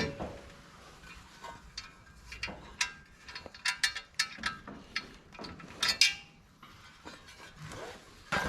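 Scattered clicks and metal clinks of hand tools and small hardware being handled, with a quick run of clicks around four seconds in and another about six seconds in.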